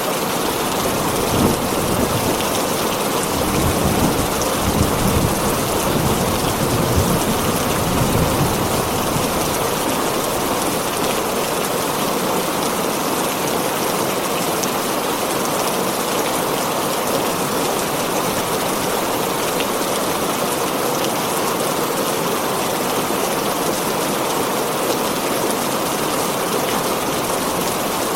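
Heavy rain drumming steadily on a tin roof, with a low roll of thunder rumbling through the first third.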